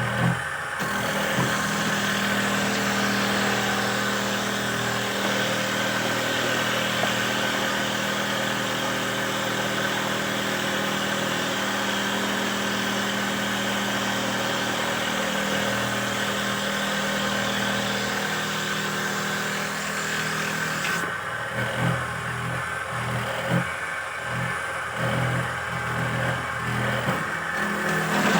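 Handmade wooden dowel machine running under its motor, a steady hum under a dense hiss. About 21 seconds in the hiss drops away and the sound turns uneven and pulsing.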